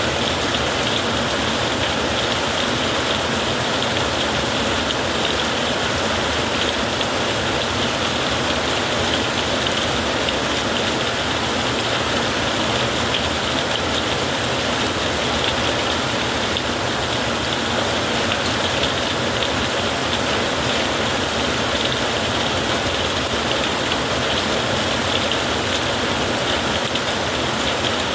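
Heavy rain falling, a steady, even hiss with no thunder claps.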